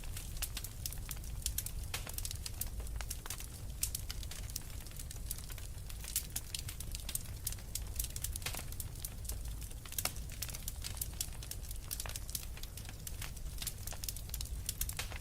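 Wood fire burning in a fireplace: many irregular crackles and pops from the burning logs over a low steady rumble of the flames.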